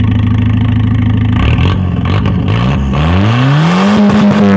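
A Volvo's engine, which has an exhaust leak, idles steadily, then is revved up from about a second and a half in, its pitch climbing to a peak near the end.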